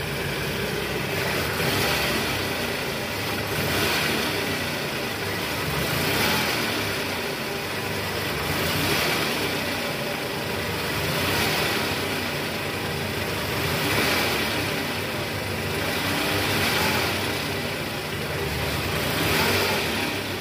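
Toyota Camry's 2AZ-FE four-cylinder engine running smoothly, its level swelling gently about every two and a half seconds. It sounds normal, without the rough grinding rattle, now that the worn balancer shaft has been dealt with.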